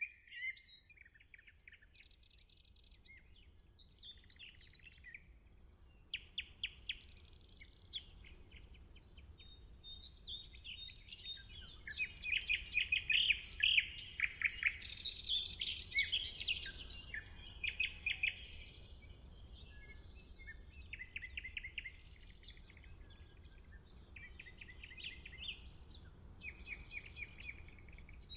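Wild birds singing and calling, several overlapping, with quick chirps and rapid trills that grow busiest and loudest around the middle.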